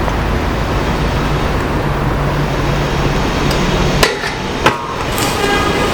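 A steady low rumble that drops away about four seconds in, then two sharp knocks about half a second apart: a stunt scooter's wheels and deck striking concrete during a trick.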